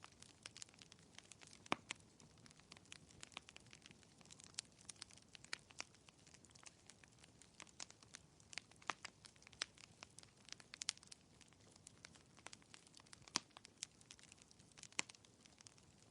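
Fireplace wood fire crackling: faint, irregular sharp pops and snaps over a soft hiss, the loudest pops about two seconds in and again near the end.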